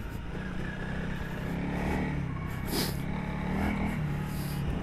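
Honda CRF300L's single-cylinder engine lugging at low revs in second gear, chugging along steadily with a slight waver in its note. A short knock sounds about three seconds in.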